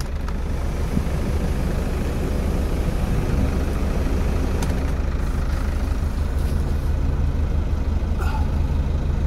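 Hyundai vehicle's engine idling steadily at about 1,000 rpm, heard from inside the cab as a low, even rumble.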